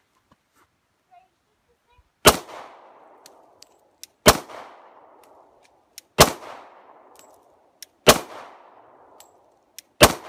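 Glock 22 pistol firing .40 S&W rounds: five shots spaced about two seconds apart, the first about two seconds in, each report trailing off in a short echo.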